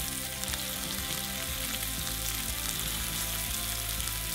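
Snow crab legs frying in very hot clarified butter in a pan, a steady sizzle and crackle.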